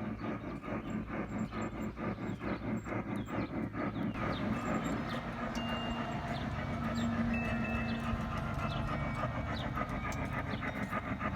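G scale model train running on track, its wheels clicking rapidly and steadily over the rail joints, with a low running hum.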